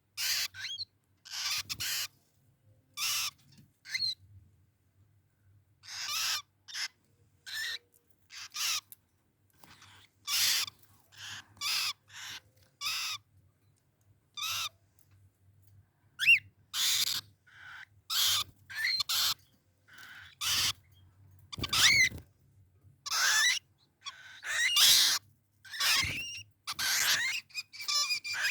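Caged birds calling: short, harsh, high-pitched calls at irregular intervals, about one or two a second, with brief pauses between them.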